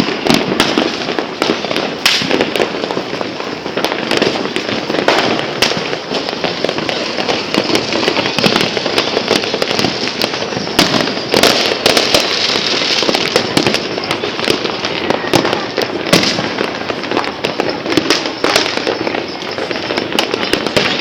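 Many fireworks and firecrackers going off at once, heard through a phone's microphone: a dense, unbroken crackling shot through with frequent sharp bangs.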